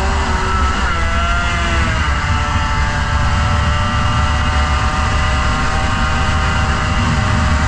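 Motorcycle engine running at speed with heavy wind buffeting on the microphone. The engine pitch shifts in the first couple of seconds, then holds steady.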